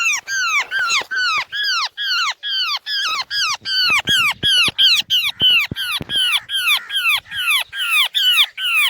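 A myna caught in a noose trap calling harshly and without pause, about three to four rasping, down-bending calls a second: the alarm cries of a trapped bird.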